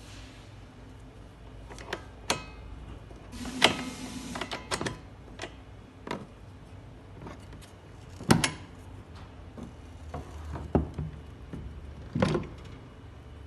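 Scattered knocks and clunks of objects being handled, irregularly spaced, with a short rustling rush about four seconds in.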